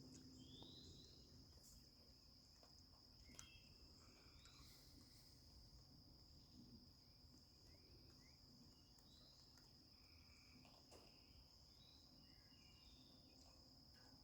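Near silence in the open evening air, filled by a faint, steady high-pitched insect trill, with scattered short chirps from small creatures.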